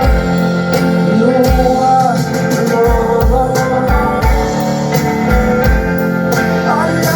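Live band performance: a woman singing over guitar and bass, with a steady kick-drum beat.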